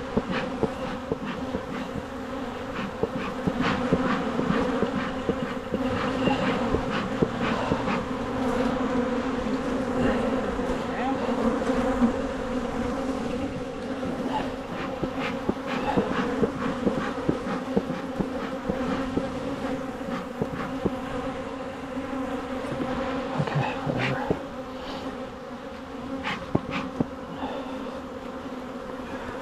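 Honeybees buzzing around an opened hive: a dense, steady hum with a low tone and its overtone. Scattered light clicks and knocks sound over it.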